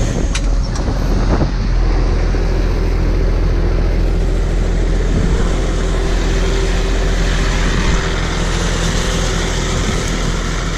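An engine running steadily at idle, with a low, even rumble.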